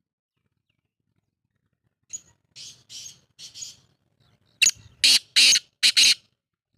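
Black francolin calling: a series of harsh, grating notes. About two seconds in come three softer ones, then four loud ones in quick succession.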